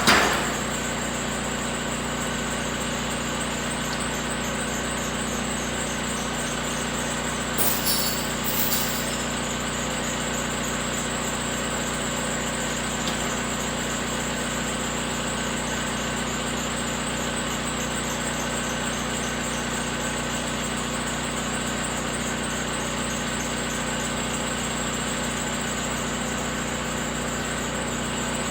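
Engine of a bucket machine running steadily while it lifts a heavy truck axle hooked behind the bucket. A sharp knock comes right at the start, and a brief high squeal about eight seconds in.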